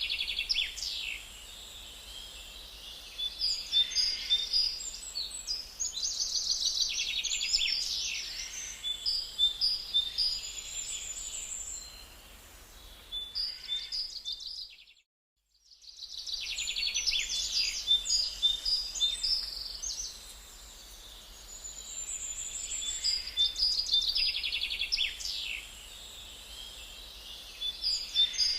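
Small birds chirping and trilling in a busy outdoor chorus. The sound cuts out completely for about a second halfway through, then the chorus resumes.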